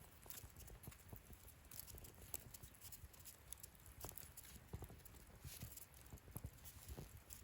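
Wood fire in a portable fire stand burning quietly, with faint, irregular crackles and small pops.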